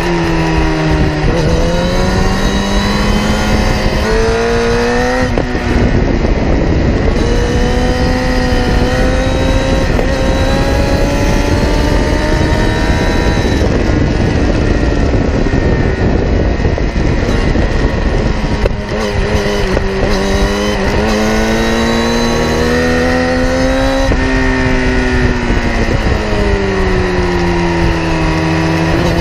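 Kawasaki ZX-10R inline-four engine heard close to its exhaust at race pace, its note rising and falling as the bike accelerates through the gears and then slows with several quick downshifts past the middle, before pulling hard again near the end. A steady rush of wind and road noise runs underneath.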